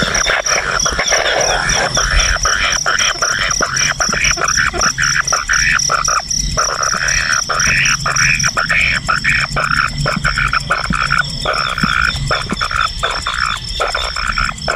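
Frogs calling in a dense chorus of rapid croaks, with a steady, high, pulsing buzz running underneath.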